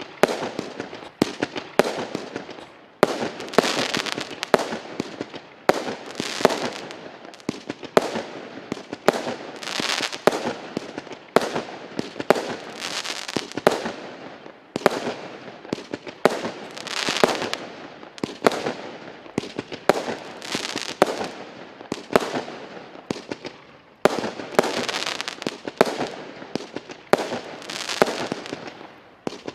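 A 36-shot, 20 mm firework cake firing its shots in quick succession, about one a second. Each shot is a sharp bang, and crackling stars burst between the shots.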